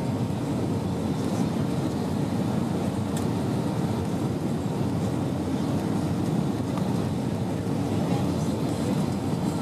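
Steady low rumble inside the passenger cabin of an Airbus A320 in flight: its engines and the air rushing past the fuselage.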